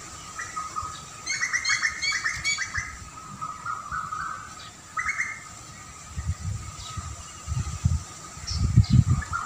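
Small songbirds chirping: a quick run of chirps about a second in, then a few shorter calls. From about six seconds in, low rumbling bursts grow louder toward the end.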